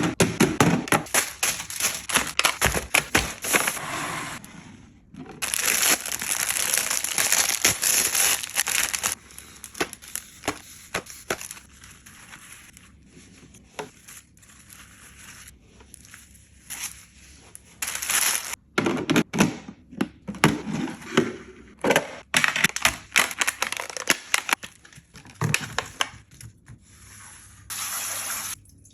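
Plastic crinkling and rustling alongside many sharp clicks, taps and knocks of hard plastic fridge storage boxes and lids being handled and set down, with a long stretch of steady crinkling a few seconds in.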